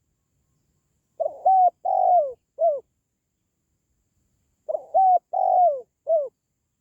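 Spotted dove cooing: two phrases, each of about four short hoarse notes that slide down in pitch at their ends, about three and a half seconds apart.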